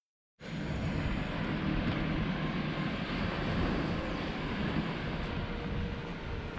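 Steady vehicle rumble mixed with rushing noise, cutting in abruptly about half a second in.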